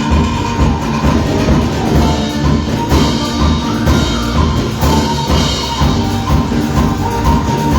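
Live worship band playing an instrumental passage, with a steady drum and bass beat about twice a second under sustained keyboard-like lines.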